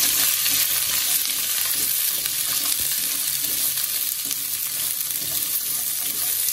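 Green beans and garlic sizzling in hot oil in a wok while being stir-fried with chopsticks: a steady hiss, with faint clicks of the chopsticks against the pan.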